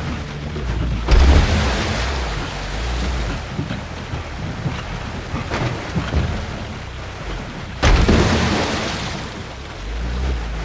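UAZ off-roader's engine running low under steady heavy rain, with two sudden loud surges of rushing noise, about a second in and again near the end, each fading away over a few seconds.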